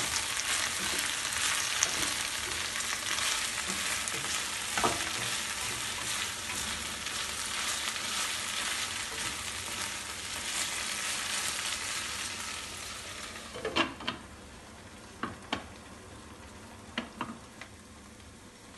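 Cut okra sizzling as it fries in a little oil in a frying pan, stirred with a wooden spatula. The sizzle dies down about two-thirds of the way through, followed by a few sharp knocks as the pan is covered with its glass lid.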